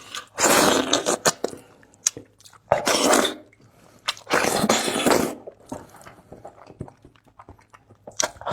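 Eating sounds from a braised beef hoof: three loud, noisy bursts of biting and chewing, each about a second long, near the start, around three seconds in and around five seconds in, with quieter chewing clicks between.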